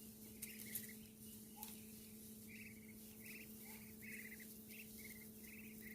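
Faint short trilled calls from a small animal, about ten in quick succession, each a fraction of a second long, over a steady low hum.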